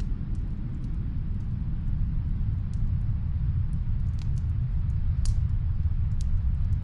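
Snowstorm wind as a steady deep rumble, with faint fireplace crackles popping here and there over it.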